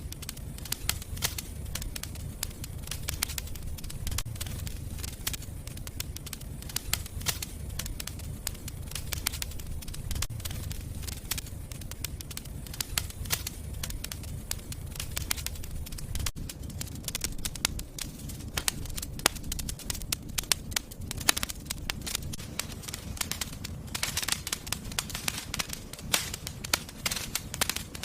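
Wood fire crackling in a fireplace: many sharp snaps and pops over a low steady rumble of flames, with a thicker flurry of pops near the end.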